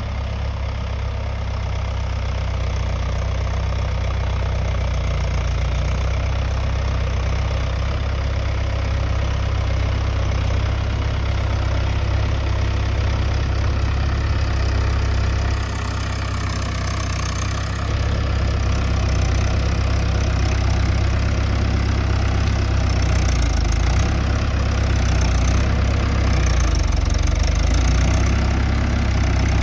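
Mahindra tractor's diesel engine running steadily. It dips briefly in loudness about sixteen seconds in and comes back up around two seconds later.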